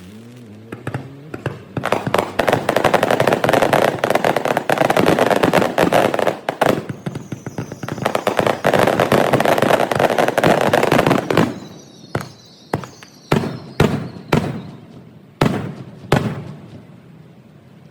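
Fireworks display: a dense barrage of crackling bursts and reports for about ten seconds. It then thins to a string of about six separate loud bangs, each trailing off.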